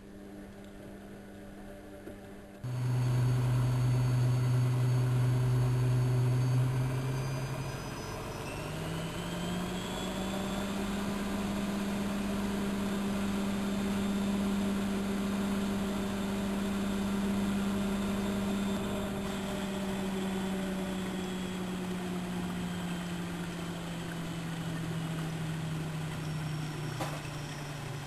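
Bauknecht WA1400 Dolphin washing machine running with a steady motor hum. A loud hum switches on a few seconds in. Its pitch then rises, holds for several seconds and slowly sinks again, with a faint rising whine above it as it speeds up.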